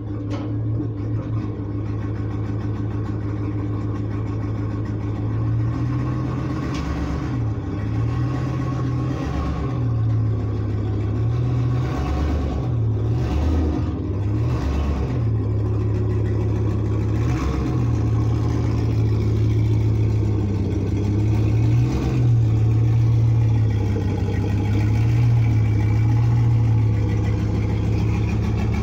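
A vehicle engine running steadily. Its pitch dips and climbs back several times between about 7 and 18 seconds in.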